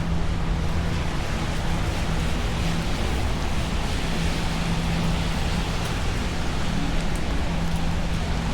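Steady hiss of rain, with a low steady hum underneath that fades out and comes back a few times.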